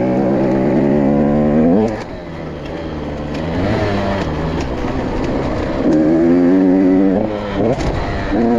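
Dirt bike engine revving hard, its pitch rising and falling with the throttle, easing off about two seconds in and opening up again about six seconds in, with quick up-and-down revs near the end.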